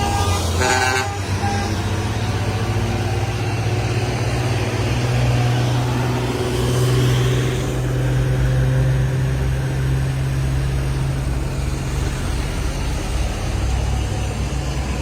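Heavy truck engine running steadily under load with a deep, even drone. A multi-tone horn sounds briefly about a second in.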